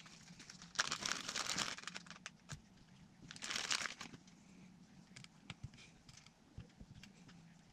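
Crinkling and rustling of something being handled, in two bursts, the first about a second long and the second a little shorter, followed by scattered light clicks and taps.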